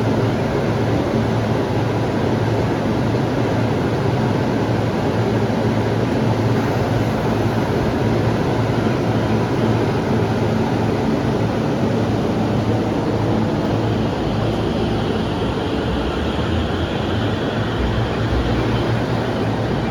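Electric commuter train at a station platform: a steady, loud rumble and hum. A faint high tone joins in over the second half.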